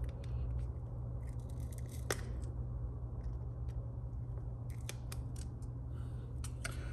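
Sharp small clicks and short scratchy scraping from a hand tool working under a smartphone's glued-in battery, over a steady low hum.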